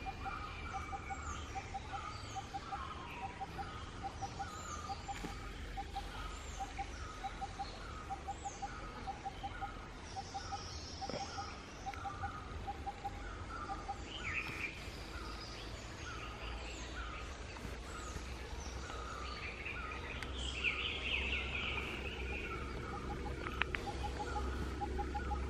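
Forest birds calling: one repeats a short call over and over, while others give brief falling chirps and a few louder bursts of song. A low rumble runs underneath.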